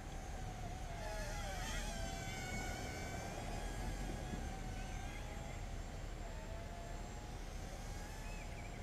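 Hubsan X4 H107C mini quadcopter's motors and propellers whining in flight over a steady low rumble. The pitch wavers up and down as the throttle changes.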